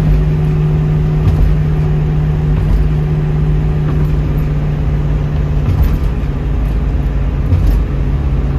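1972 Ford Mustang Mach 1's V8 engine and tyres at a steady cruise, heard from inside the moving car as an even drone with road noise.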